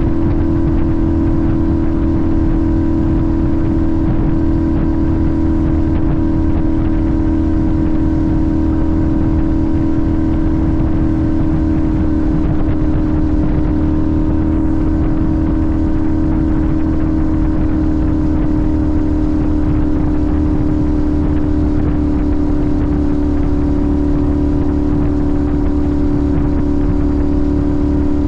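Sportbike engine running at steady cruising revs, its note easing slightly lower about halfway through.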